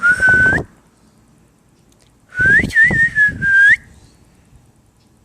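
A person whistling to call a dog: a short whistle that rises at its end, then about two seconds later a longer whistle that wavers up and down.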